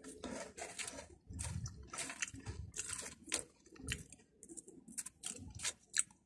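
Mouth chewing a Patata potato snack close up: an irregular run of short crunches, several a second.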